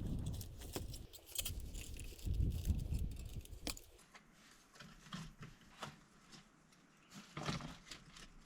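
Irregular clicks, knocks and rustling, with low rumbling thuds in the first half. After an abrupt change about halfway through, the clicks turn quieter and sparser, with one louder burst near the end.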